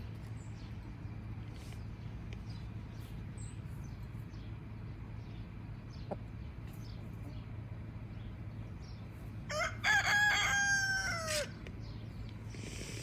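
A rooster crowing once near the end, a single crow of about two seconds that holds its pitch and then drops at the close.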